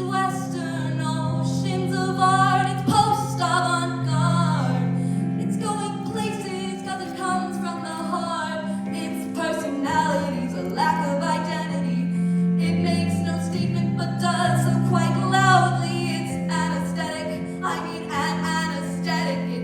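A solo female voice singing a slow melody with vibrato, over sustained accompaniment chords.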